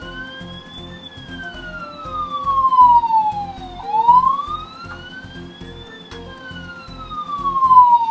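Fisher-Price Imaginext toy police car playing its police siren sound, a wail that rises for about a second and falls for about three, twice over. A steady music beat runs underneath.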